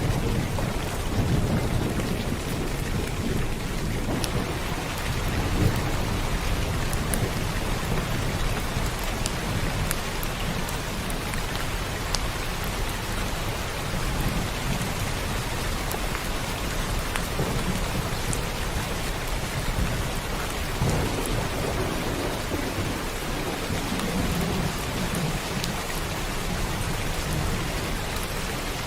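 Steady rain falling, with scattered drops ticking on a surface, under low rolling thunder rumbles that swell and fade several times.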